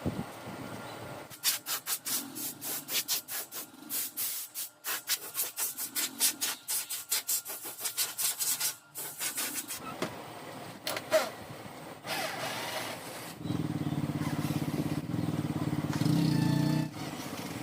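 A quick, uneven run of sharp clicks and knocks for several seconds, then a small motor running steadily for a few seconds near the end.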